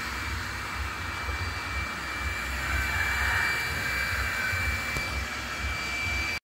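ILife robot vacuum-mop running: a steady whirring noise with a thin high whine over a low rumble.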